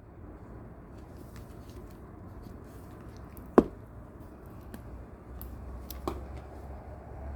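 Slime being worked by hand, with scattered small clicks and pops and one sharp pop about halfway through.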